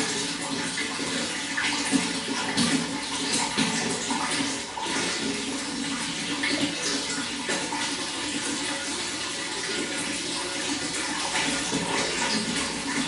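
Running water flowing steadily, with small irregular splashes.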